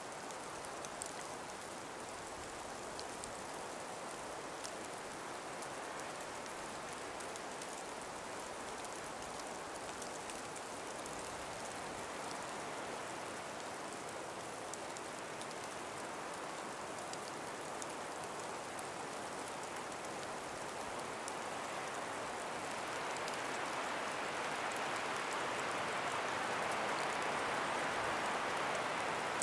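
Calm breeze in a frost- and ice-covered forest: a steady hiss that swells louder in the last several seconds, with a few faint ticks.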